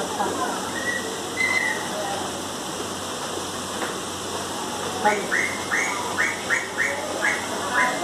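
A bird calling from about five seconds in: a quick run of short rising chirps, about three a second, over a steady rushing noise.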